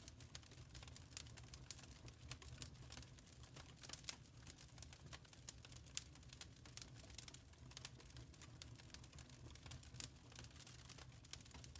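Faint wood fire crackling in a fireplace: irregular small pops and snaps, several a second, over a low steady rumble.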